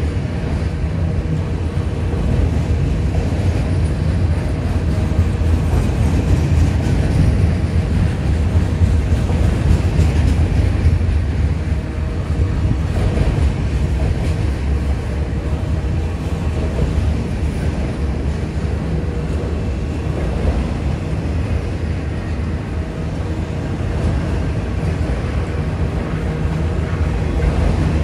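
Freight train of multilevel autorack cars rolling past: a steady, continuous rumble of steel wheels on rail.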